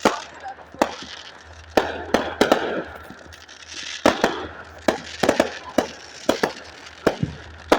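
Fireworks going off: a string of sharp pops and bangs at irregular intervals, about a dozen in all, with crackling between them.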